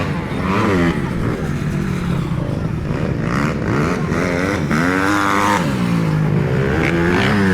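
Motocross dirt bike engines revving hard and easing off over and over, their pitch rising and falling as bikes accelerate around the track, with more than one engine heard at once.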